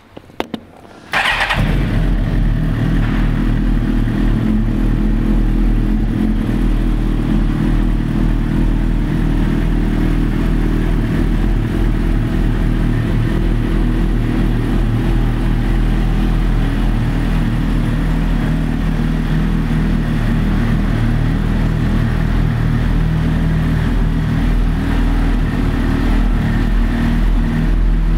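2007 Suzuki GSX-R1000 inline-four with an aftermarket exhaust pipe, starting up about a second in after a couple of short clicks, then idling steadily.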